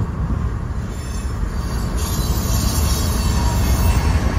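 Freight train led by an EMD SD70ACE and a GE ES44C4 diesel-electric locomotive running past, heard from inside a moving car close alongside the track and mixed with the car's own road noise. The sound grows a little louder toward the end.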